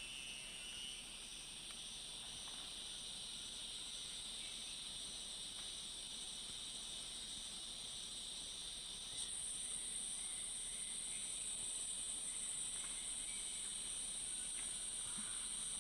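Steady, high-pitched drone of a rainforest insect chorus, sitting on two high pitches, with the higher one growing louder about nine seconds in.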